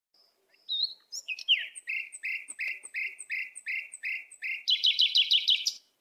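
A songbird singing: a run of repeated down-slurred whistled notes, about two a second, that breaks into a quicker, higher trill near the end and stops abruptly.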